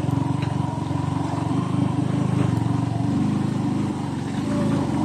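Motor scooter engine running steadily under way, with its rapid even firing.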